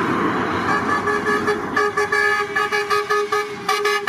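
Truck air horn sounding, first as a held tone and then as a rapid series of short blasts, over the noise of truck engines.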